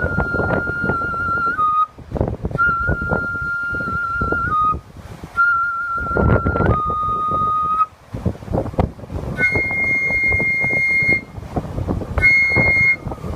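An umebue festival flute playing long held notes in short phrases, with two higher notes in the second half. Strong typhoon wind buffets the microphone throughout.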